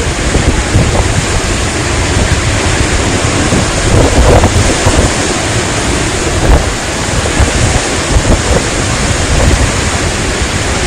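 Strong storm wind, a loud continuous rush with heavy low buffeting of wind on the microphone, swelling briefly about four seconds in.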